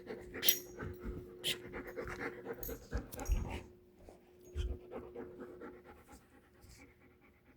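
Puppy panting after play, with a few sharp clicks in the first couple of seconds and a couple of dull thumps in the middle, quietening toward the end.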